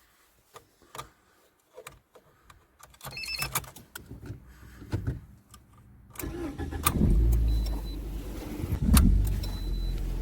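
A few clicks and a short electronic beep, then a cold car engine cranks and starts about six seconds in and settles into a steady idle with a brief rise near nine seconds. No lifter ticking is heard: a sign the owner takes to mean the hydraulic lifter knock is cured after the oil change and engine flush.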